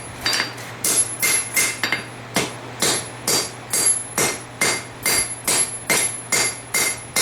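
Blacksmith's hammer striking hot steel on an anvil in a steady rhythm, about three blows a second, each with a bright metallic ring: hand-forging the tang of a knife made from a farrier rasp.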